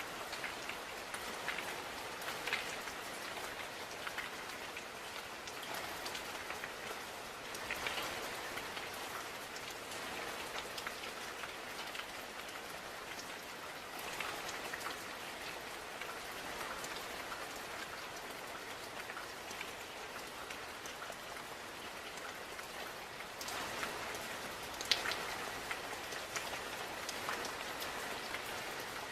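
Steady rain falling, an even hiss with scattered drops pattering on surfaces, a few louder close drops standing out.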